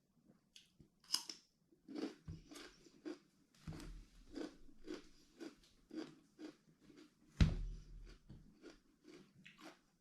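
A person chewing and crunching food close to the microphone, about two chews a second, with one heavier knock about seven and a half seconds in.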